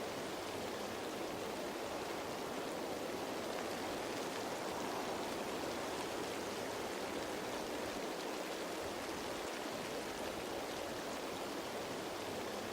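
Steady rain falling on leaves, a dense even patter.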